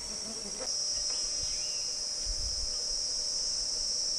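Steady high-pitched shrilling of insects, growing louder a little under a second in.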